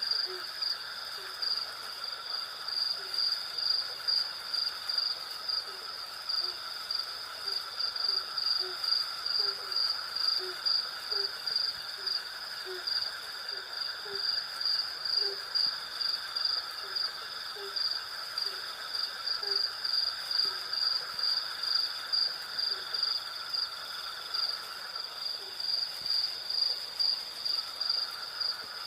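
Night chorus of crickets chirping in a steady pulsing rhythm over a lower, continuous insect drone. Short low calls repeat about once or twice a second alongside them and die away about two-thirds of the way through.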